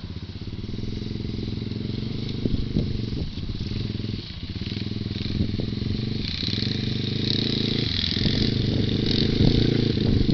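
Small off-road engine of a quad or dirt bike running steadily close by. It dips briefly about four and eight seconds in, and grows slightly louder toward the end.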